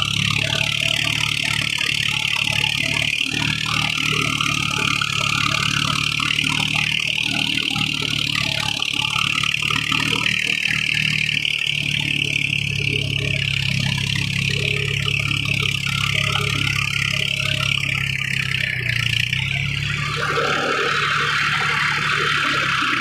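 Tractor engine running steadily while pulling a cultivator through a field, with a slight change in engine note near the end.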